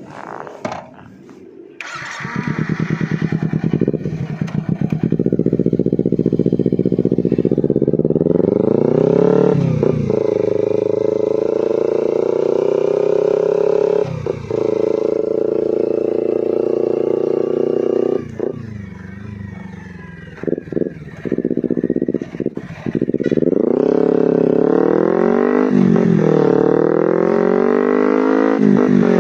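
Kawasaki Ninja 250 FI parallel-twin four-stroke engine through a Termignoni exhaust, ridden hard. The pitch climbs and drops back at each upshift, several times over. It eases off for a few seconds past the middle, then revs up through the gears again near the end.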